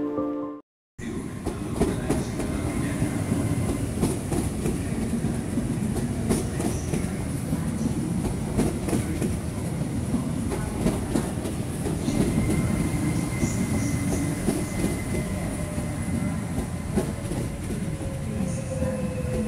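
Two coupled ETR104 'Pop' electric multiple units rolling along the platform, their wheels clattering over the rail joints. A faint whine falls in pitch near the end.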